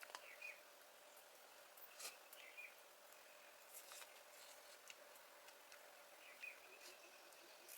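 Near silence: a few faint, scattered clicks and three faint short chirps.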